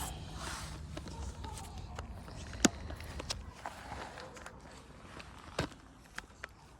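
Scattered light knocks and clicks of tools and parts being handled, over a low steady hum; the sharpest knock comes about two and a half seconds in, another near six seconds.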